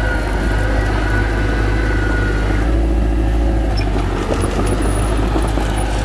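Heavy diesel machinery engine running loud and steady, with a high whine over it in the first half.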